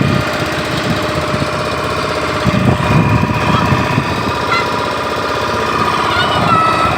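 A small engine running steadily with a fast rattle, holding an even pitch. A few faint short chirps sound over it in the second half.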